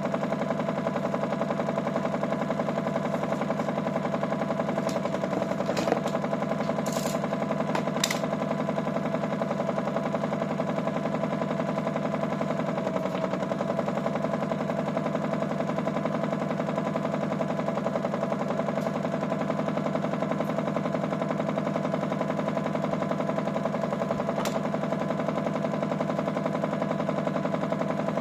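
Toy Miele W1 washing machine's small electric motor running steadily, with a rapid, even rattling buzz. A few light clicks about six to eight seconds in and again near the end.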